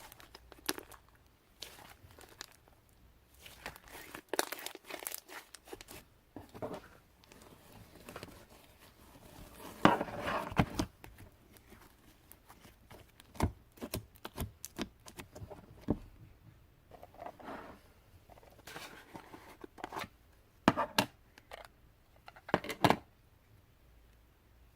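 Slime being stretched, folded and pressed by hand, with irregular crackling, tearing and popping sounds. A denser burst of crackles comes about ten seconds in.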